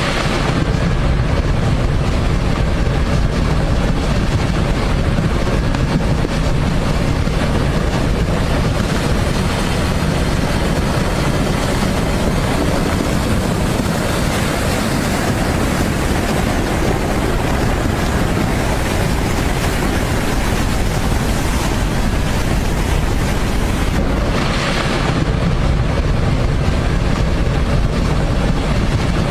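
Floodwater rushing in a torrent: a loud, steady roar of water, with wind buffeting the microphone.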